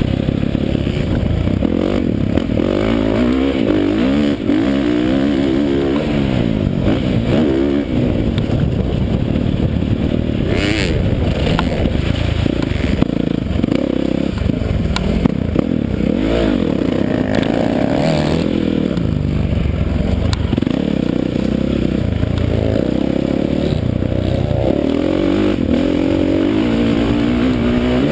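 Dirt bike engine being ridden hard, revving up and falling off again and again as the rider works the throttle and gears.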